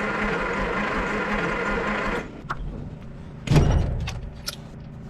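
Starter cranking the 1955 Willys engine with a steady drone, without it catching, then cutting off suddenly about two seconds in. A loud heavy thump follows about a second later, then a few light clicks.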